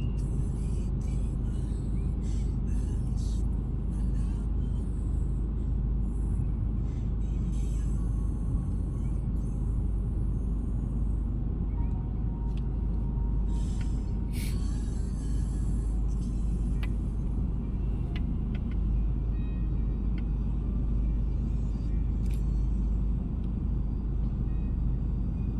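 Steady low rumble of engine and road noise inside a moving car's cabin, with a few light clicks in the first few seconds.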